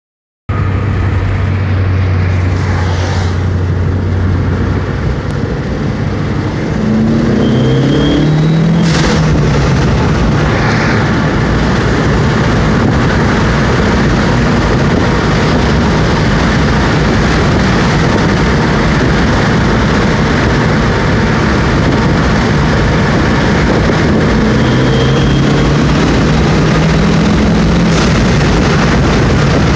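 Dodge SRT-4's turbocharged 2.4-litre four-cylinder engine heard from inside the cabin during two wide-open-throttle pulls, the engine note rising with each. It runs over loud, steady road and wind noise, with a brief high whistle as the pulls come on boost. The owner is unsure whether the whistle on the stock turbo is normal and believes there are no boost leaks.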